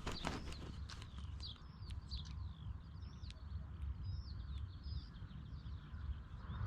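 Small birds chirping: many short, falling chirps in quick succession, over a steady low rumble.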